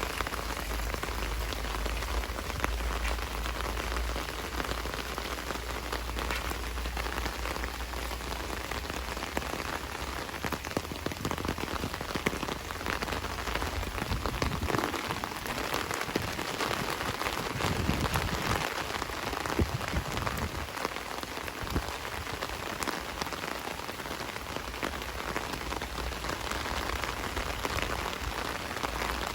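Heavy rain falling steadily, a dense patter of drops. A low rumble sits under it for the first several seconds and swells again briefly about eighteen seconds in.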